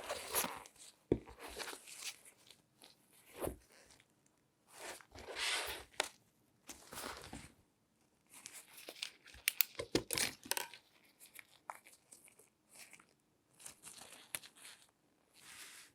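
Close-miked rustling and scraping from latex-gloved hands handling and rubbing an object, in separate strokes of about a second with short pauses, and a quick run of sharp clicks and taps about ten seconds in.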